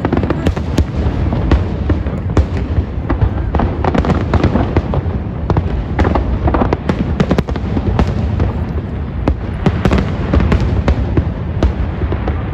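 Fireworks display in full barrage: many bursts and crackles in quick succession, overlapping, over a continuous low rumble of booms.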